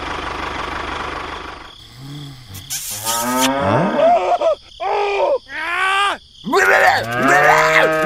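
A toy tractor's small motor running steadily, which cuts off about two seconds in. A cow then moos in several rising-and-falling calls.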